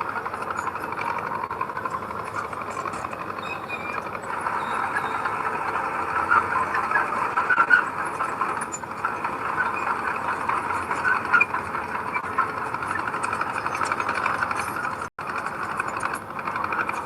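Heavy earthmoving machine working soil: a steady engine and machinery din with scattered small clanks and squeaks. The sound cuts out for an instant about fifteen seconds in.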